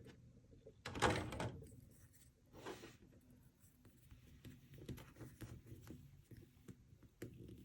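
Small plastic toys and packaging being handled: a short rustle about a second in, another near three seconds, then scattered light taps and clicks.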